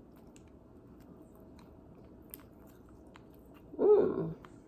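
Faint mouth sounds of someone chewing edamame, with a small click or two. About four seconds in comes a short, loud hum-like vocal sound lasting about half a second.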